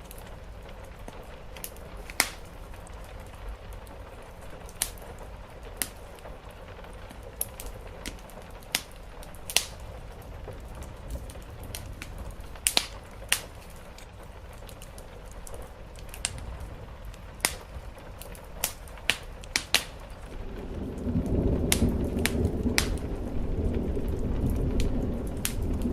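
Wood fire crackling with sharp, scattered pops over a steady hiss of rain. About twenty seconds in, a low rumble of thunder swells up and carries on to the end.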